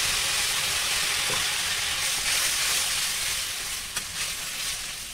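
Water splashed into hot oil with mashed potato and spice masala in a heavy iron kadhai, sizzling loudly, with a steel spatula scraping through it. The sizzle eases off over the last second or two, with a few light spatula ticks.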